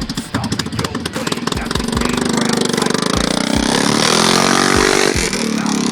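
Kawasaki Prairie 360 ATV's single-cylinder four-stroke engine, straight-piped with the muffler removed, running. It is blipped at first, then revved up about two seconds in, held high, and let drop back toward idle near the end.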